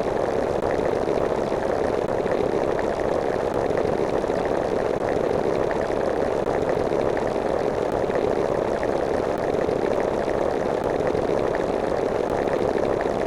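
A steady mechanical drone, like an engine running, holding the same level and pitch throughout.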